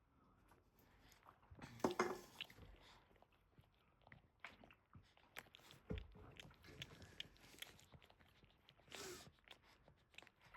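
Mother Boston terrier licking and chewing at her newborn puppy: faint wet smacking and clicking, with louder scuffling about two seconds in and again near the end.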